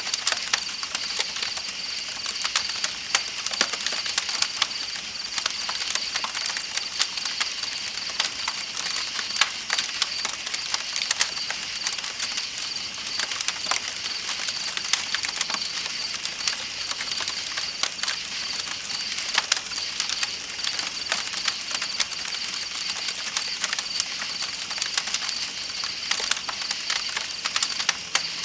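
Campfire crackling with frequent sharp pops over a steady high chirring of night insects and the even hiss of flowing river water.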